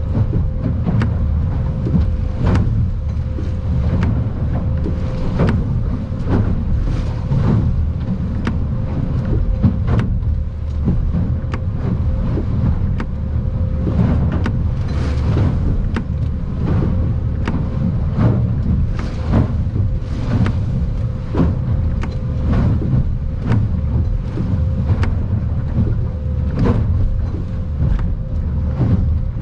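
Stabicraft 2050 Supercab aluminium boat under way in rough water: a steady low engine rumble with a constant hum, and frequent sharp knocks and splashes as the hull slams into the swells.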